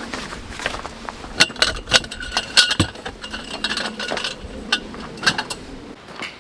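Hard objects clinking and knocking together, a dozen or so irregular strikes, several of them leaving a brief metallic ring.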